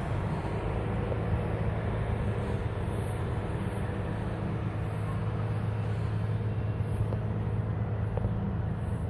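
An engine running with a steady low hum that holds the same pitch throughout.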